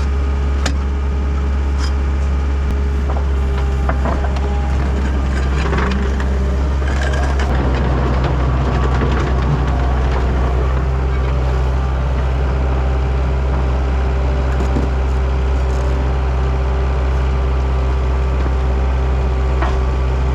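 Diesel engine of a Takeuchi TL10 compact track loader running steadily, its pitch stepping up slightly about a third of the way through. A few sharp clicks and cracks sound over it.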